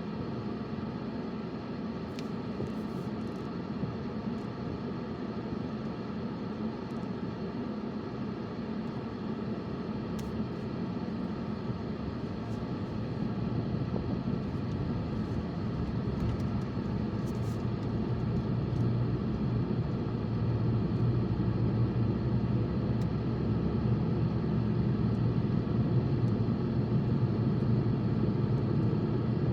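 Road and engine noise of a moving car heard from inside the cabin, a steady low rumble that grows gradually louder from about the middle on, as the car picks up speed.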